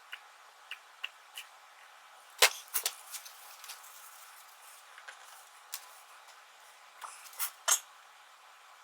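Scattered light clicks and taps from handling a small motorcycle battery while filling it with acid. The loudest knocks come about two and a half seconds in and again near the end.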